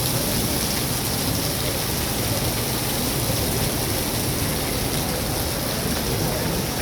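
Heavy rain pouring down without pause, a dense, steady hiss of rain hitting surfaces.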